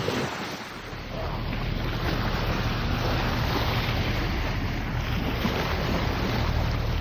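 Wind on the microphone and water rushing past a sailboat under way at sea, with a low steady rumble that sets in about a second in.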